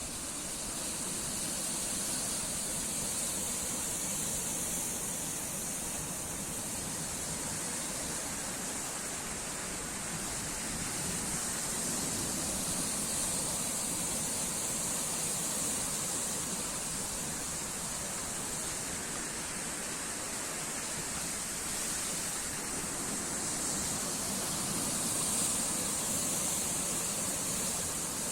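Sea surf: a steady rush of breaking waves, swelling gently and easing every ten seconds or so, with a strong hiss on top.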